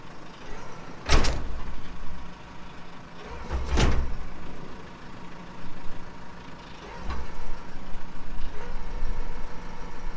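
Tractor engine running steadily, with two loud clunks about one and four seconds in and lighter knocks later, as the rear hitch and hydraulic ram are worked against the snowblower to hook it on.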